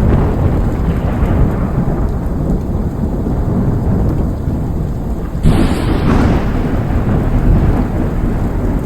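Thunderstorm: heavy rain falling under steady deep rumbling, with a sudden louder crash about five and a half seconds in.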